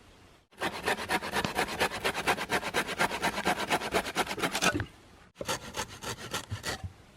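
Rapid rhythmic scraping strokes, about eight a second, in a run of about four seconds, then a shorter run after a brief break.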